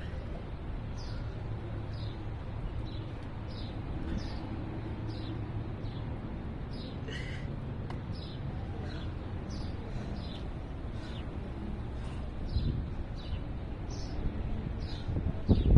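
A bird chirping over and over, short falling chirps at about two a second, over a steady low rumble of outdoor background noise. Right at the end a loud gust of wind hits the microphone.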